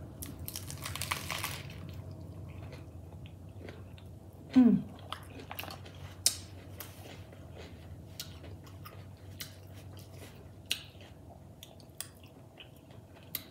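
A crunching bite into a lettuce-wrapped burger, then quiet chewing with small wet clicks and mouth noises. A short falling hum from the eater comes about four and a half seconds in.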